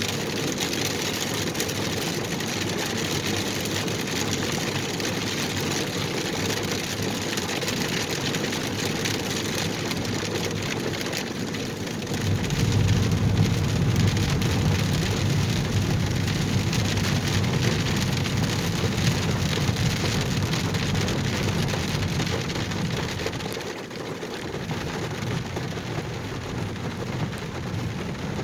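Steady rain falling on a car, heard from inside, with a vehicle running underneath. A deeper low rumble swells up about halfway through and drops away near the end.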